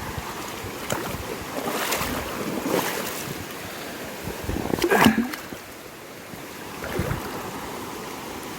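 Water sloshing and splashing with wind buffeting the microphone, in irregular swells. A louder splash comes about five seconds in.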